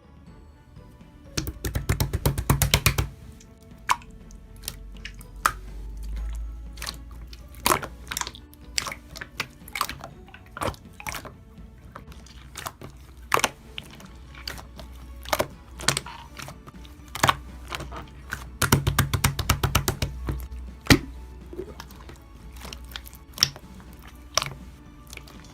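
Slime being squeezed and pressed by hand, giving scattered sharp clicks and pops and, twice, a run of rapid crackling, over quiet background music.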